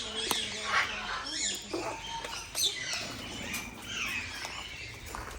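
Many small birds chirping and chattering over one another, a dense run of short quick calls.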